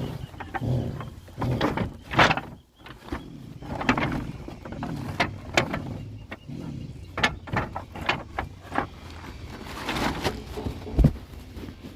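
Irregular knocks and clatters, some sharp and some dull, over a steady low hum.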